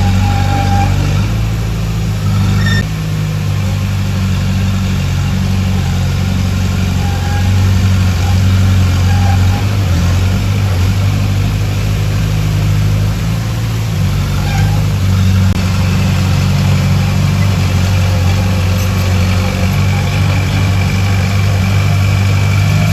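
Diesel engine of heavy earthmoving machinery running steadily, a loud low hum whose pitch shifts slightly now and then.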